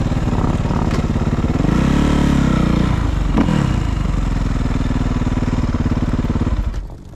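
Dirt bike engine running close by, revving up and back down twice, then dropping away near the end.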